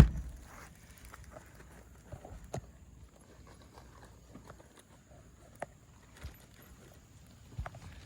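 A hammer blow on a roofing nail at the very start, then scattered light taps and scuffs on asphalt shingles.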